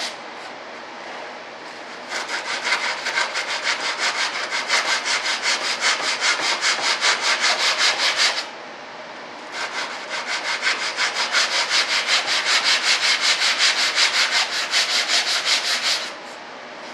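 Hand sanding of a hardwood strip with 80-grit sandpaper on a sanding block, in quick back-and-forth strokes. The strokes begin about two seconds in, stop for about a second just past the middle, then carry on until shortly before the end.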